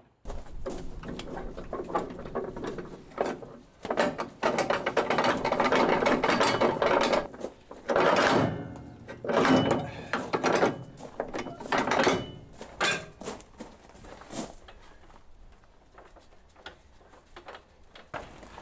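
Mechanical clattering and ratcheting with irregular knocks, loudest in the middle and dying down over the last few seconds.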